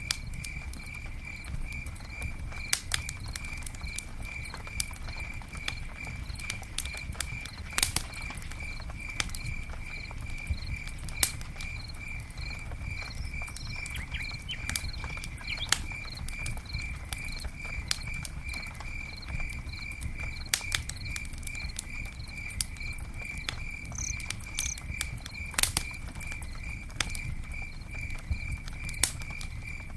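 Wood campfire burning with a low steady rumble and frequent irregular crackles and sharp pops. Behind it an insect chirps steadily in a high pitch, about two to three chirps a second.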